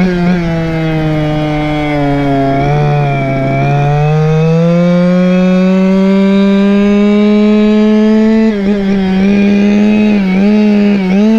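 Goped scooter's Chongyang CY26 two-stroke engine running under way. Its pitch sags about two to four seconds in as the throttle eases, climbs back and holds steady, then dips briefly several times near the end.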